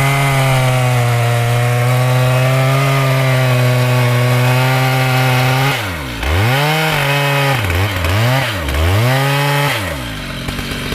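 Two-stroke chainsaw held at full throttle cutting mahogany wood for about six seconds, then the throttle is released and blipped several times, the engine pitch swooping down and up, before it drops to idle near the end.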